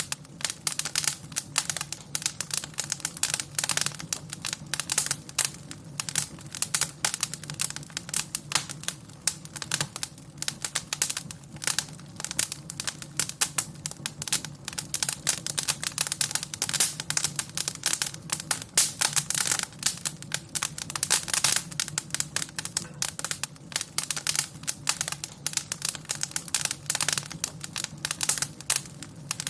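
Wood fire in a fireplace crackling, with dense irregular pops and snaps over a low steady rumble.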